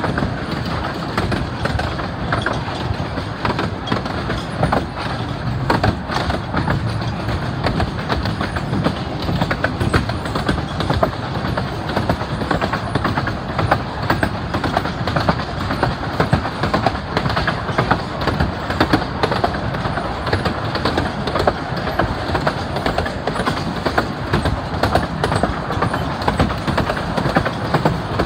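Miniature railway carriages running along the track, heard from on board: a steady rumble with frequent irregular clicks of the wheels on the rails.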